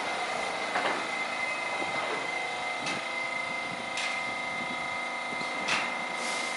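Subway train's electrical equipment whining with a steady high tone, joined by several lower tones about two seconds in. A few sharp clicks come through about one, three, four and six seconds in.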